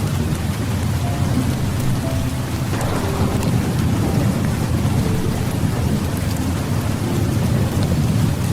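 Heavy rain falling steadily with a continuous low rumble of thunder beneath it.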